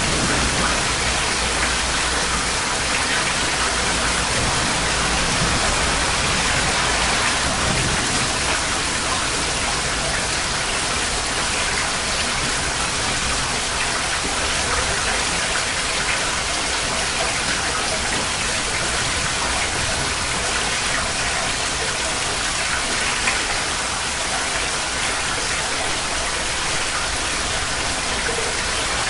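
Steady heavy tropical rain, a dense even hiss of drops falling without letup.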